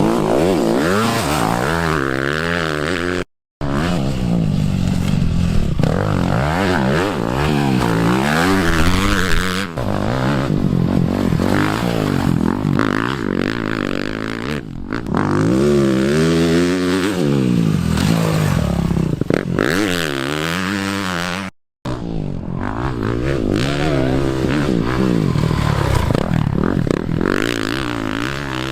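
Dirt bike engines revving hard on the race track, the pitch rising and falling with the throttle as the bikes pass. More than one bike is often heard at once. The sound cuts out briefly twice, about three seconds in and again past twenty seconds.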